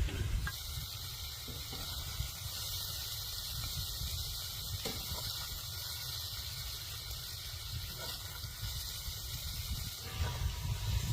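Tomato pulp cooking down in a pot, a steady sizzling hiss over a low rumble, with a few faint ticks.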